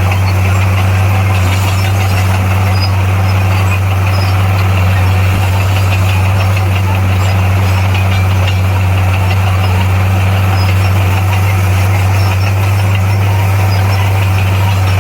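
Bulldozer's diesel engine running steadily, a loud, even low drone that holds the same pitch throughout.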